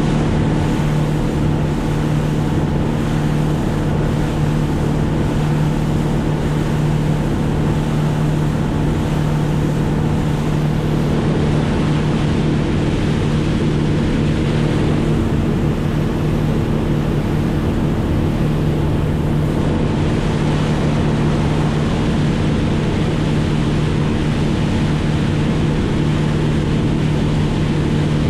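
An engine running steadily at a constant speed, a loud even hum, with wind noise on the microphone.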